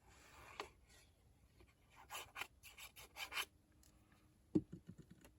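Soft rubbing and scraping of paper in a series of short strokes, with one light knock about four and a half seconds in.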